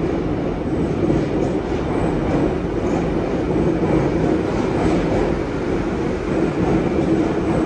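Sydney Trains stainless-steel double-deck electric train running along the station platform, a steady rumble of wheels and motors.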